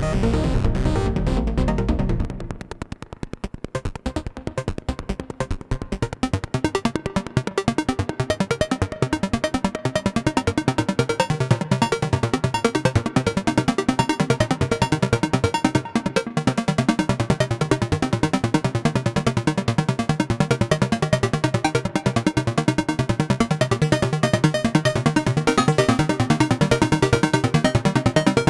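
Eurorack modular synthesizer playing a rapid stream of short, plucked sequenced notes from a Braids-style macro oscillator. The notes are shaped by an envelope through a gate and echoed by a Mimeophon delay. About two seconds in, the low bass drops out and the sound thins and quietens, then builds back to a dense, even patter.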